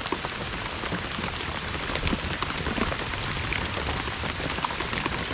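Steady rain falling, with the ticks of many separate drops striking close by.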